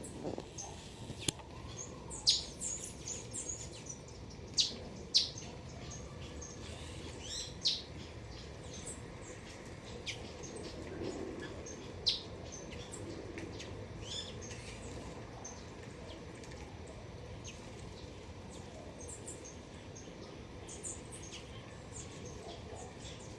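Small garden birds chirping: many short, sharp high calls, coming thick in the first eight seconds and sparser after, over a steady low background hum.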